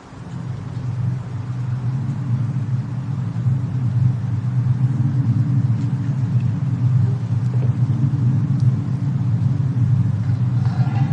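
Snowstorm-and-fireplace ambience: a steady low rumble with a few faint crackles, fading up over the first couple of seconds.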